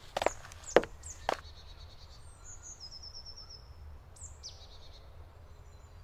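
Forest birdsong: a quick descending trill of high notes about two seconds in and a sharp down-slurred call a little past four seconds. Before that, a few sharp knocks in the first second and a half are the loudest sounds.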